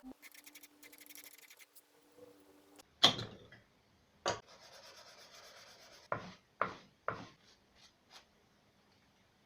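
Hand work on wood: a loud sharp knock, then a knock and a steady scraping stroke about two seconds long, followed by three quick knocks about half a second apart and a few fainter taps.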